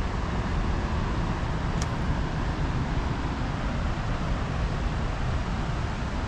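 A waterfall rushing steadily, in full flow after heavy rain, as it pours down into a hollow below ground level.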